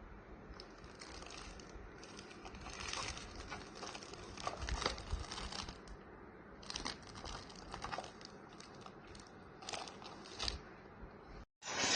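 Packaging crinkling and rustling as it is handled, in irregular bursts with a few sharper crackles.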